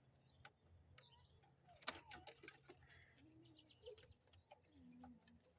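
Near silence, with a few faint clicks and taps, the clearest about two seconds in.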